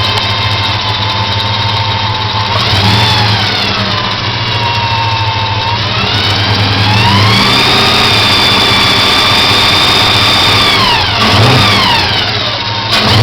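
Holden VN SS 5.0-litre V8 through a 3-inch exhaust being revved: the pitch rises, sinks slowly, then climbs again and is held high for about three seconds before dropping, followed by a couple of quick blips near the end.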